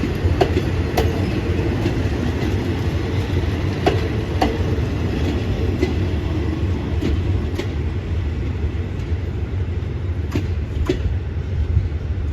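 Train running on the track: a steady low rumble with the wheels clicking sharply and irregularly over rail joints.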